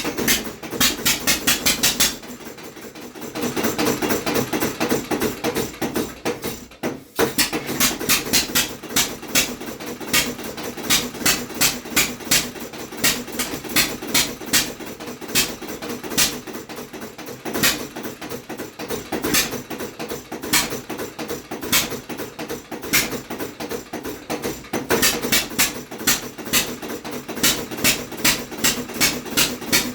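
Homemade quadricycle engine running on petrol, firing with sharp bangs about three to four times a second, somewhat unevenly spaced. It falters for a moment about seven seconds in, then keeps running.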